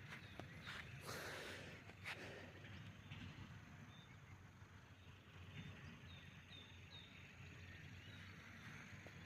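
Faint outdoor forest ambience: a few short, high chirps of a small bird over a low steady rumble, with a brief rustle and a couple of light clicks about a second in.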